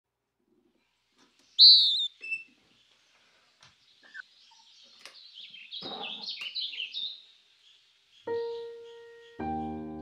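Birds chirping: one loud call about one and a half seconds in, then a flurry of chirps in the middle. Near the end a piano comes in, a single note and then a held chord.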